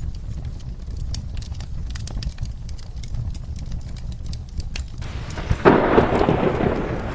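Fireplace fire crackling with sparse, sharp pops over a low rumble. About five seconds in, a thunderclap and heavy rain rise sharply over it.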